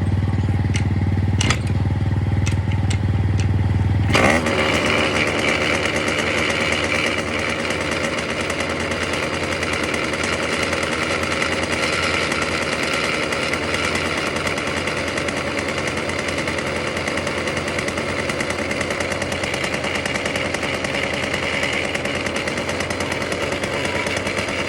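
Car engine cranking on the starter for about four seconds, then catching suddenly and running steadily on a cold start.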